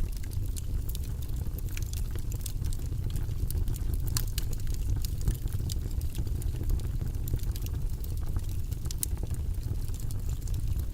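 Wood fire crackling in a fireplace: a steady low rumble with frequent sharp pops and snaps, the loudest about four and nine seconds in.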